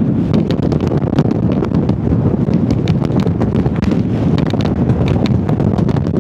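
Strong gusting wind buffeting the microphone with a loud, steady rumble, with many sharp irregular ticks over it.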